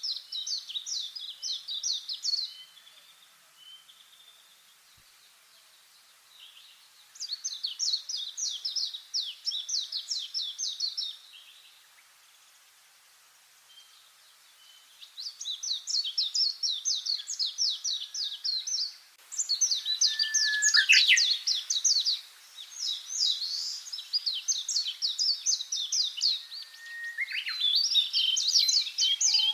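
Small songbirds singing: repeated high, fast trills of quick notes, each phrase lasting two to four seconds with short pauses between. In the last third the phrases come almost back to back, with a few lower falling whistles among them.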